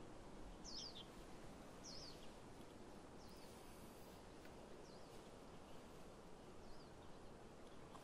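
Quiet steady wind noise with a bird giving short, sharp high chirps: two clear ones in the first two seconds, then three fainter ones spread over the rest.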